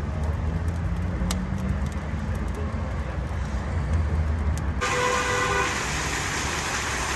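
Road traffic outdoors: a steady low rumble of passing vehicles with a few sharp clicks. About two-thirds of the way through it cuts abruptly to a brighter hiss with faint steady tones.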